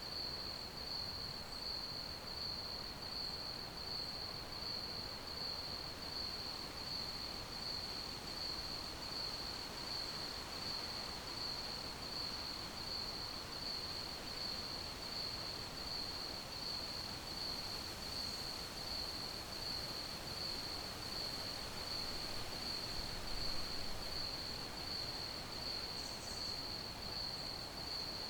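Crickets chirping in a steady, unbroken chorus, one high trill that pulses evenly at a single pitch over a faint hiss. There is a brief low thump about 23 seconds in.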